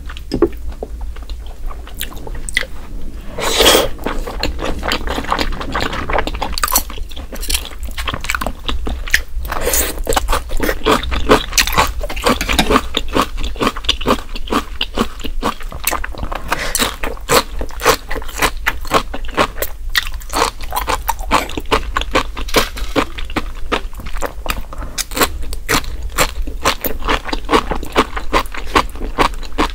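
Close-miked eating of raw salmon sashimi with sea grapes: wet chewing and biting, with a dense run of crisp clicks and crunches.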